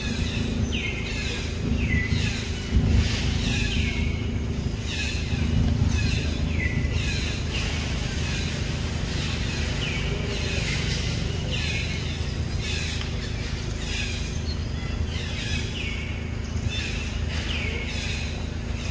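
A bird calling over and over: short high chirps that each fall in pitch, about one or two a second, over a low steady rumble.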